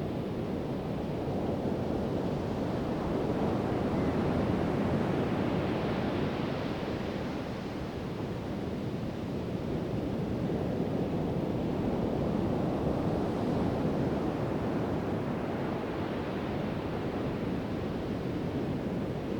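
Pacific Ocean surf breaking and washing up the beach: a continuous rush of water that swells louder twice, about four seconds in and again about twelve seconds in.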